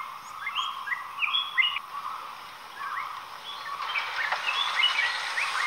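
Birds calling: a string of short, rising chirps, several a second and irregularly spaced, over faint steady background noise.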